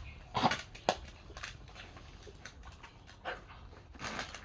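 Dog sounds: two short, sharp noises about half a second and a second in, then fainter scattered clicks.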